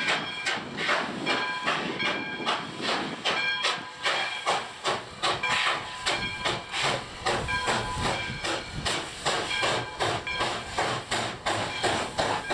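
Nevada Northern Railway steam locomotive No. 93 running past with its exhaust chuffing rhythmically, about three beats a second, over hissing steam.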